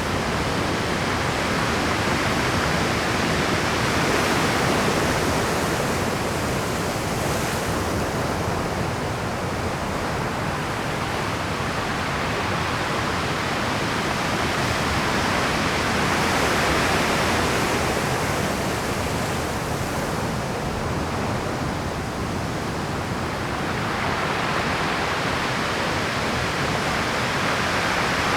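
Rough Pacific surf breaking continuously against a rocky shore: a steady rush of churning water that swells a little louder every ten seconds or so as each set of waves comes in.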